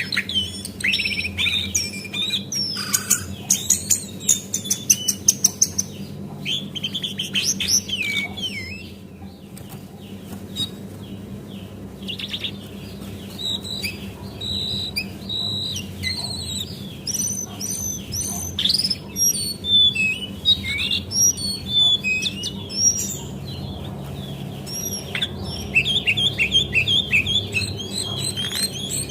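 Brown cingcoang (jongkangan coklat) singing in rapid bursts of high chirps, trills and short whistles, with a lull about a third of the way through. A faint steady hum runs underneath.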